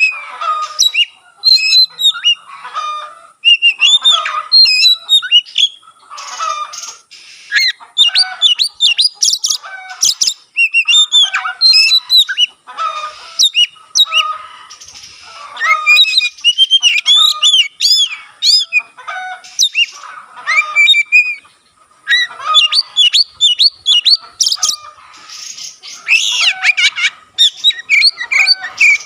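Oriental magpie-robin singing loudly and without letup: a fast, varied stream of whistles, chirps and harsher notes, phrase after phrase with only brief pauses.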